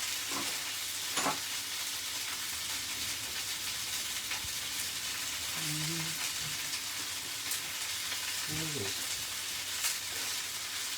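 Chicken wings sizzling in hot coconut oil in a frying pan: a steady frying hiss with a few faint crackles.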